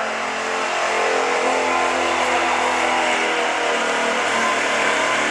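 A gas-engined Chevrolet 4x4 pickup running at full throttle while pulling a weight-transfer sled in a truck pull. The engine note holds steady and loud throughout.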